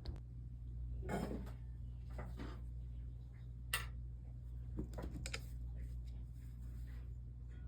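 Light scrapes and clinks of soldering work at a stained-glass bench, with one sharp click a little before four seconds in, over a steady low hum.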